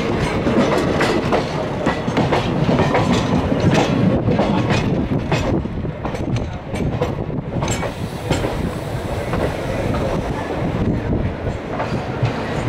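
Passenger train rolling out of a station, heard from an open coach door: steady running noise with wheels clicking and clattering over rail joints and points, the clicks densest in the first half. The coaches of another train pass close alongside at the start.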